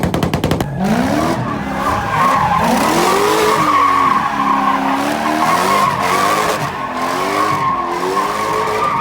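A car engine revving up and down while its tyres squeal steadily, as in drifting or donuts. It opens with a fast, even stutter that cuts off within the first second.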